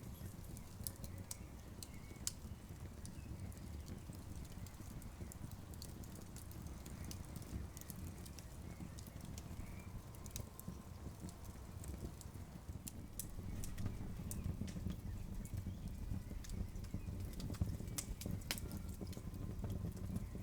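Wood campfire crackling: sharp, irregular pops and snaps over a steady low rumble, slightly fuller in the second half.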